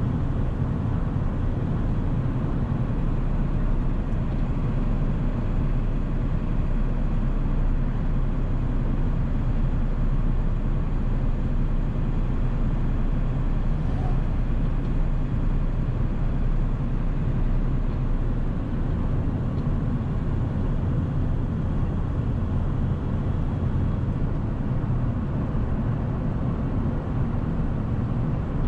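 1997 7.3 L Powerstroke turbo-diesel V8 running at a steady cruise while driving, a continuous low drone mixed with road noise.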